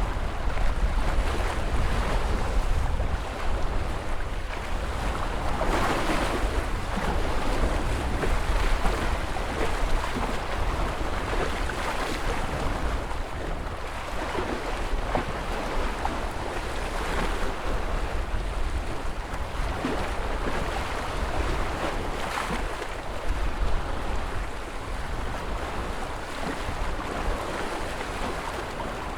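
Ocean surf: waves washing in continuously, with a louder rush of breaking water every five or six seconds, over a low wind rumble on the microphone.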